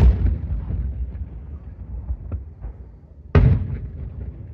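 Fireworks: two loud aerial shell bursts about three and a half seconds apart, each trailing off in a long rumble, with a few fainter pops between them.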